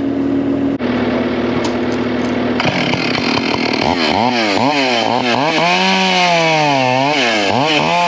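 A steady engine hum, then about three seconds in a chainsaw revs up and cuts into wood, its pitch rising and falling again and again.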